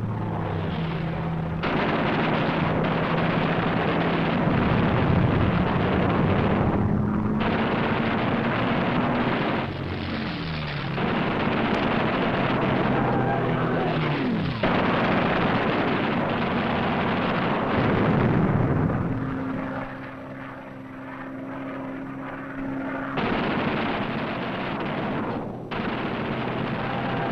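Propeller aircraft engines running with a dense rushing noise, the pitch falling several times as planes sweep past. It drops to a quieter, steady drone for a few seconds past the middle.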